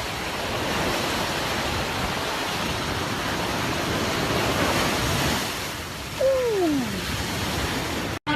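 A steady rushing noise, with a short falling tone about six seconds in; the sound cuts off abruptly just before the end.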